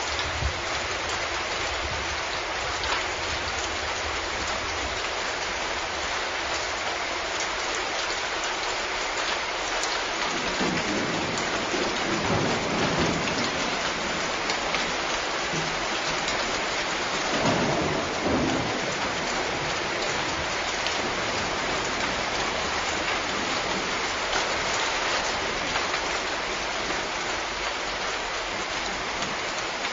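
Steady rain falling. Low rolls of thunder swell up about ten seconds in and again a little past halfway.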